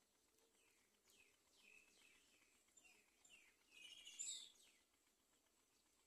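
Faint series of high-pitched bird chirps, each sweeping downward in pitch. They come several times over a few seconds, with the loudest cluster about four seconds in.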